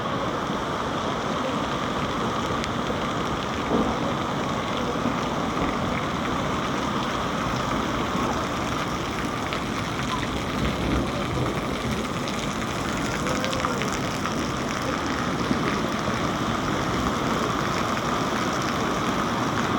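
Rain falling steadily on surfaces, a dense even patter with no let-up.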